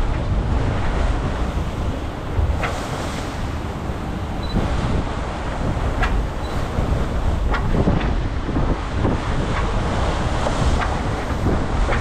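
Wind buffeting the microphone and water rushing past the hull aboard a racing sailboat under way at sea, a steady rumbling noise with scattered short sharp ticks.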